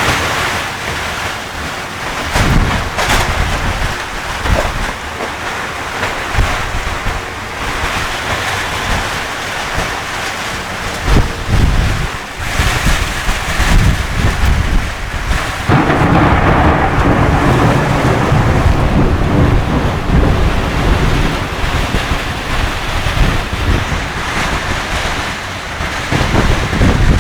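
Thunderstorm: heavy rain with rolling thunder. A few sharp cracks come in the first half, and about two thirds of the way through a louder low rumble sets in and holds.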